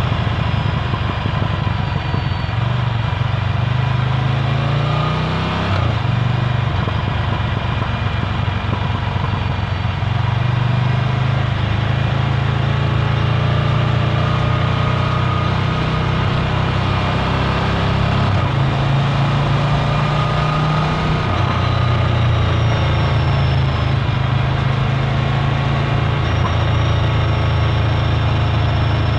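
Ducati Scrambler Full Throttle's air-cooled L-twin engine through a Termignoni exhaust, running loud under way. The engine note rises and drops several times, with a sharp break about six seconds in, as the bike changes speed and gears.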